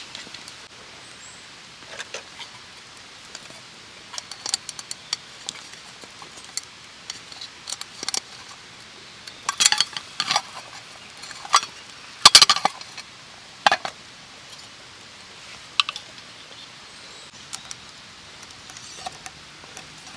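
Cookware and utensils being handled: scattered clinks and clatters, with the loudest clusters a little before and a little after the halfway point.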